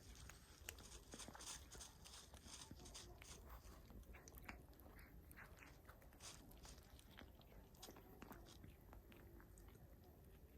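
A cat chewing and crunching its food: faint, quick, irregular crunching clicks.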